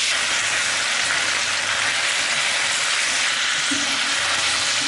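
Steak pieces and green beans frying in bubbling fat in a De Buyer carbon-steel pan: a steady sizzle.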